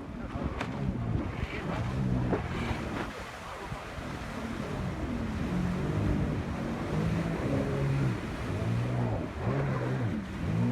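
Jet ski engine running, its pitch rising and falling again and again as the throttle is worked, with water rushing and wind on the microphone.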